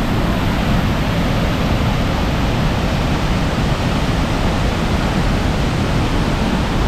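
Waterfall swollen by heavy rain: loud, steady rushing water.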